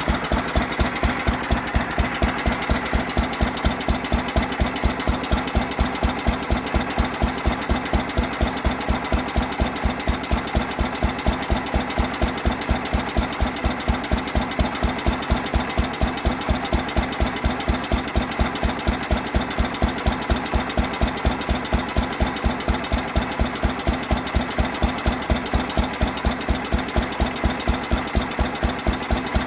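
2.5 hp International Harvester Mogul single-cylinder stationary gas engine running steadily, each firing a distinct beat in an even, unbroken rhythm.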